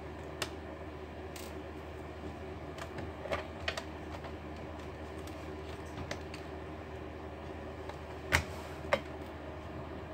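Scattered light clicks and taps of laptop case parts and small tools being handled on a workbench, a few together a third of the way in and the two loudest near the end, over a steady low hum.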